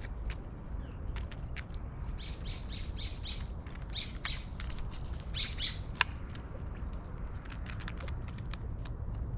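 Harsh squawking bird calls in three short bouts, mixed with scattered light clicks and taps and one sharp click about six seconds in, over a low steady outdoor background.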